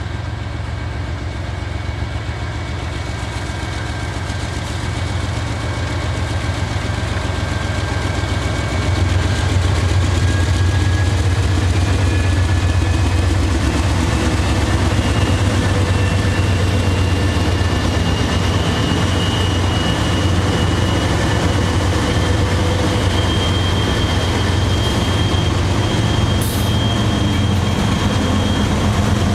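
A diesel-hauled freight train rumbling past, getting louder about nine seconds in and then holding steady. Thin high tones drift slowly upward in pitch above the rumble.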